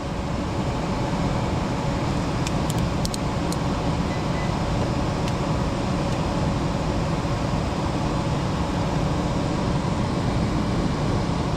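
Gas furnace running in heat mode: a steady rush of the blower and burner, with a few light clicks about two and a half to three and a half seconds in.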